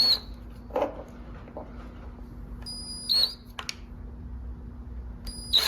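Drill whining in three short trigger bursts, about half a second each, as a small bit starts a pilot hole.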